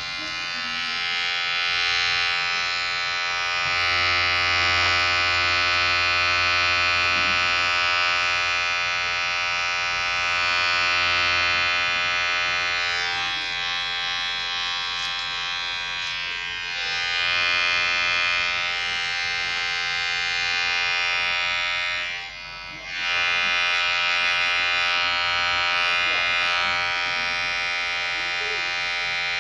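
Electric hair clipper buzzing steadily, its hum swelling and fading in strength, with a short dip about three quarters of the way through.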